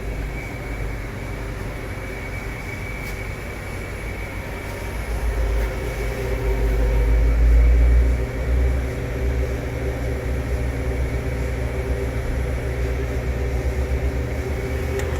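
Steady machine hum of a powered-up CNC lathe and shop equipment, with a faint high whine over it. A low rumble swells about five seconds in and eases after about eight seconds.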